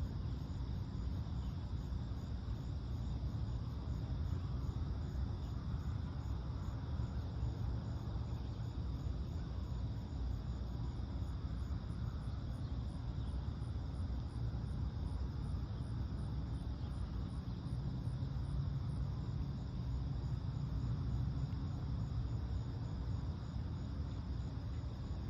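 Steady chirring of crickets and other insects, with a faster pulsed high chirping for several seconds near the middle, over a steady low rumble.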